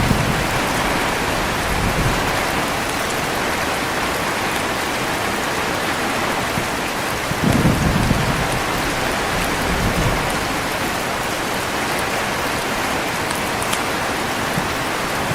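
Heavy rain falling steadily, with short low rumbles of thunder at the start and again about halfway through.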